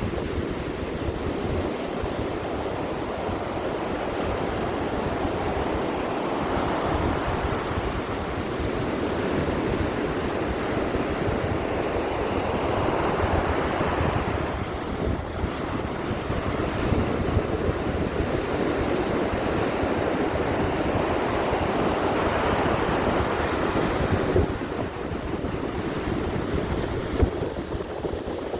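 Ocean surf washing ashore in a continuous rush, swelling louder as each wave breaks, with wind gusting across the microphone.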